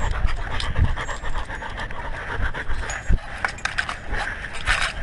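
A dog panting right next to a collar-mounted GoPro Hero3, with low thumps and clicks as the camera jostles while the dog walks. The breathing grows louder near the end.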